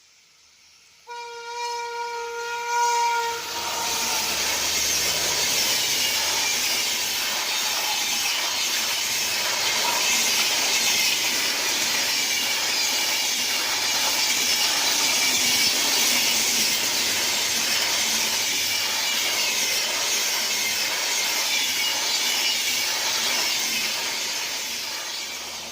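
An express train's horn sounds for about two seconds. The train then passes at speed close by, a loud steady rush of wheel and rail noise with regular clattering over the rail joints, easing off near the end.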